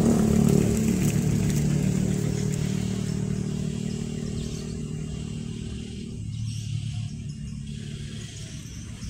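A motor vehicle engine running steadily and gradually fading away.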